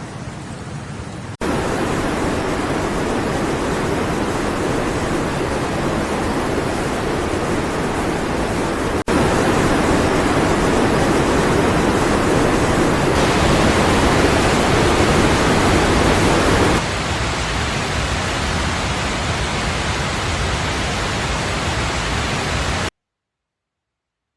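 Steady rushing of floodwater, heard in several segments that change abruptly in level about a second in, near the middle and about two-thirds through, then cutting off to silence shortly before the end.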